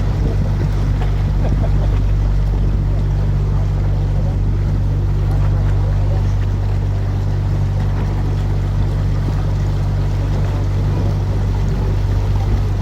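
Canal tour boat's motor running steadily under way, a constant low hum with a wash of water and wind noise over it.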